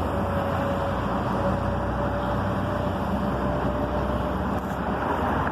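Steady road-vehicle noise, an even rumble with a faint steady whine running through it.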